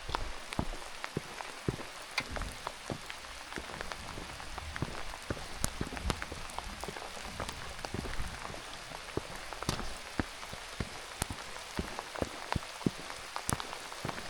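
Steady rain falling, with many sharp, irregular drop hits close by.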